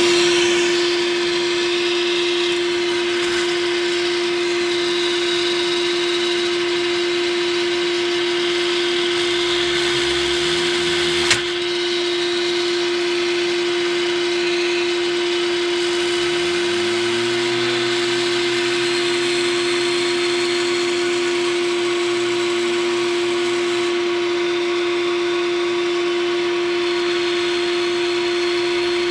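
Vacuum cleaner motor running steadily with a strong, even whine. A single sharp click sounds partway through. A second, lower hum then rises in pitch and levels off as a small computer cooling fan is spun up by the vacuum's airflow.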